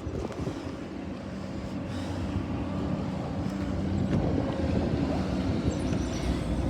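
Bus engine running with a steady low rumble, growing gradually louder.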